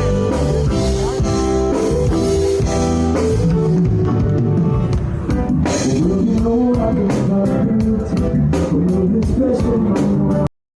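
Reggae band music with a singing voice, guitar and drum kit, loud and steady, cutting off suddenly to silence near the end.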